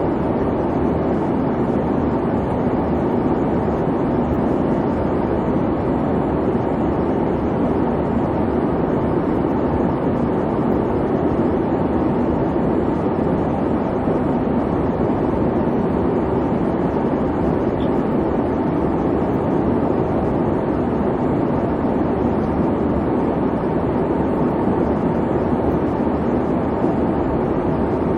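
Airliner cabin noise in flight: a steady, even rumble and hum of engines and airflow, strongest in the low-mid range and without breaks.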